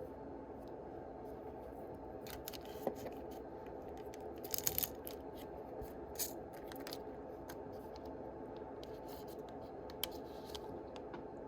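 Yu-Gi-Oh booster pack being opened by hand: the foil wrapper crinkles and tears, and cards are handled in short bursts. The loudest crackle comes about five seconds in, over a steady background hum.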